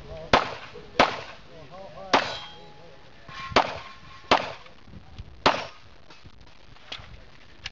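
Pistol shots fired on a competition stage: six sharp, loud shots at an uneven pace about a second apart, some followed by a brief ringing tone, then two fainter cracks near the end.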